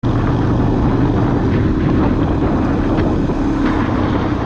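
Steady vehicle rumble with wind noise on the microphone, as from a dashcam in a moving vehicle, starting abruptly with a steady low hum and a few faint clicks.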